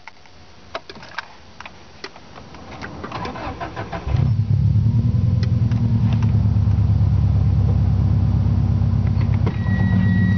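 Subaru GC8 STI's turbocharged EJ20G flat-four being started: a few clicks, a short crank, then the engine catches about four seconds in and settles into a steady idle near 1,000 rpm through its 3-inch aftermarket exhaust.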